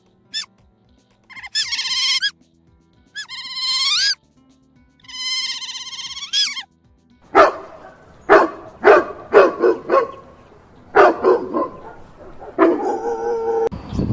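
An animal calling: three long, high calls that rise in pitch at the end, then a quick run of about eight short, sharp bark-like calls, and one lower call near the end.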